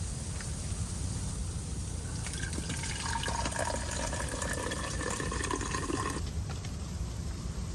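Water from melted snow being poured into a bottle: the pour starts about two seconds in and stops suddenly about six seconds in.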